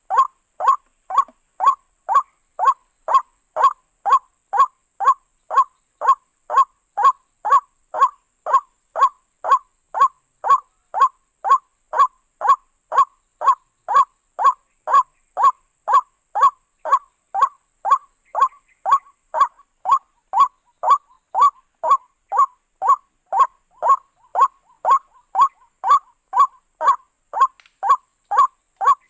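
White-breasted waterhen call: a short 'kruak' note repeated very evenly, about one and a half times a second.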